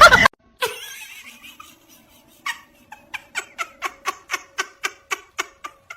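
Soft rhythmic laughter: short, even pulses about four a second, starting about two and a half seconds in, after a loud sound cuts off at the very start.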